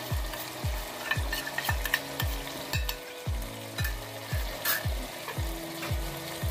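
Onion-tomato masala sizzling in a pressure cooker as a watered spice paste is poured in, with a fine crackle. Under it runs background music with a steady low beat about twice a second, the loudest sound.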